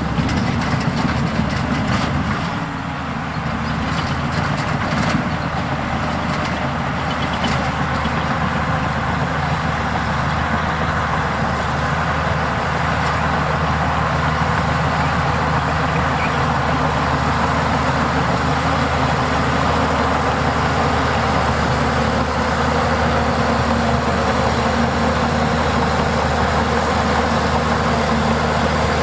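Heavy earthmoving machine's diesel engine running steadily, with a low, even hum. A few sharp clanks come in the first several seconds.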